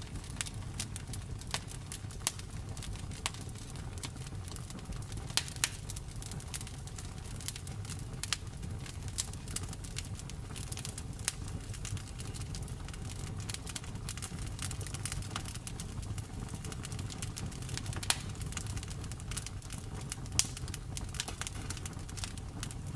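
Fireplace wood fire crackling, with dense irregular snaps and a few louder pops over a steady low rumble of the flames.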